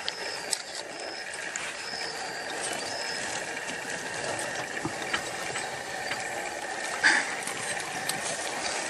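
Porcupine rattling its quills in defence against an attacking predator: a steady, dense, dry clattering rattle of many fine clicks.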